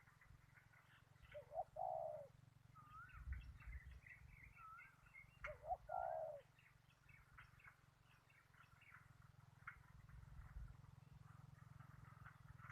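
A dove cooing in two short phrases, about a second and a half in and again near six seconds, over many small birds chirping and twittering.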